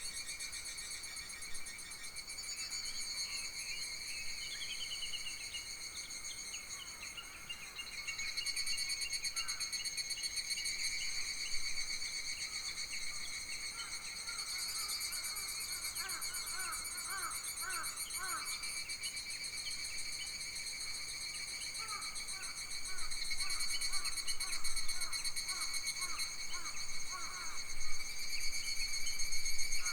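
Summer forest ambience: a steady, high-pitched chorus of insects buzzing throughout, with a bird singing runs of short, quickly repeated notes, once in the middle and again in the last third.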